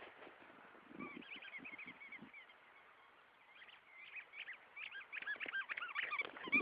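A squeaky Kong dog toy squeaking in quick runs of short high squeaks, a few at first and then rapid and dense over the last couple of seconds, with a few soft low thumps early on.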